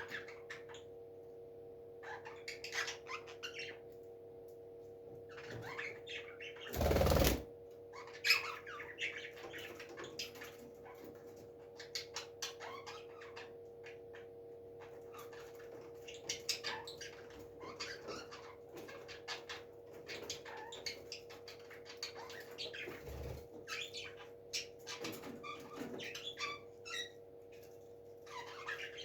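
A parrot scratching and shuffling about, with a few brief squawks and chirps, mostly in the last few seconds. A louder thump or flap comes about seven seconds in, and a steady hum runs underneath.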